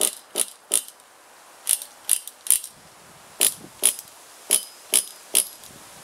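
Pull-starter of a nitro RC engine yanked in quick short tugs, each pull a brief ratcheting rattle, in groups of two or three with short pauses between. The engine does not catch.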